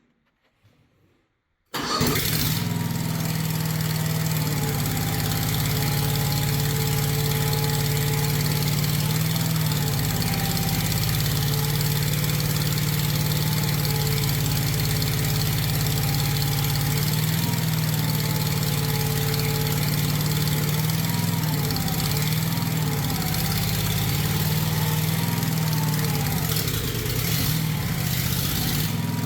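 Predator 670 V-twin engine in a mini Bobcat skid steer starting about two seconds in and then running steadily, its speed wavering slightly. It runs with no exhaust or muffler fitted yet.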